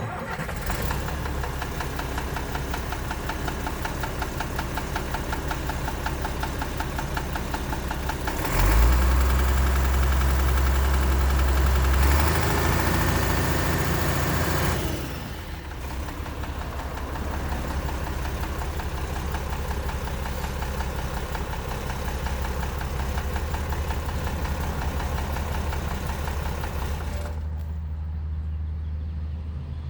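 Engine of a 1981 International flatbed truck running at a steady idle. It gets louder for about six seconds partway through, then drops back to idle.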